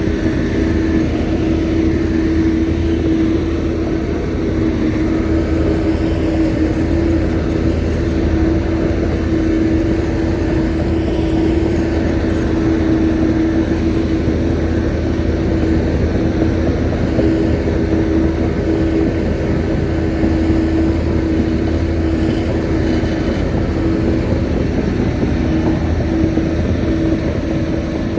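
Shantui bulldozer's diesel engine running steadily at working revs, with a constant whine over the low drone.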